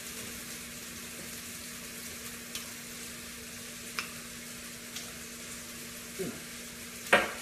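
Chicken breast frying with onion and garlic in a pan, a steady sizzle. A few light clicks sound through it, and there is one louder knock near the end.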